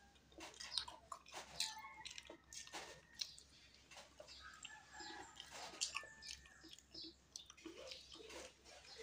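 A person chewing and biting a soft peeled banana close to the microphone: many short, irregular mouth clicks.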